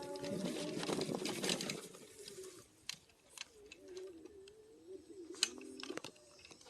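Low, wavering cooing notes of a bird, like a dove, from about three seconds in, with a few sharp clicks. A louder jumble of sound fills the first two seconds.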